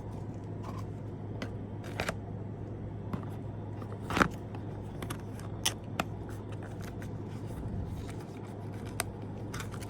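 Hands handling the contents of a nail-art subscription box: scattered light clicks and taps with some rustling of packaging, the sharpest tap about four seconds in, over a steady low hum.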